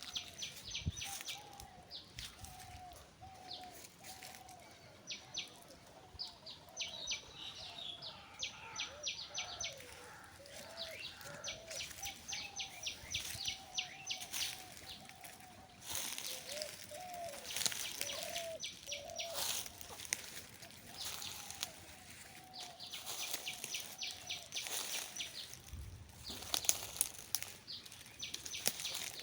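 Birds calling: runs of rapid, high chirped notes repeat over a continual string of short, lower calls.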